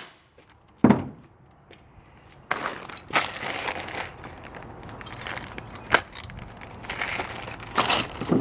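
Handling of metal chain-drive garage door opener parts during assembly: one sharp thump about a second in, then from about two and a half seconds on a steady clattering and rustling with small clinks, and a sharp click about six seconds in.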